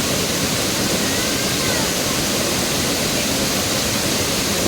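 Waterfall: a steady rush of falling water, with a faint brief gliding tone over it about a second and a half in.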